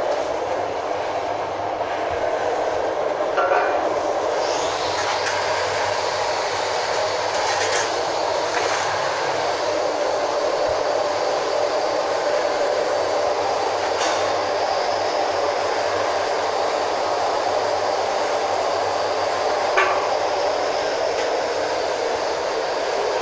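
Steady rushing running noise of a vehicle in motion, with a few faint clicks and knocks now and then.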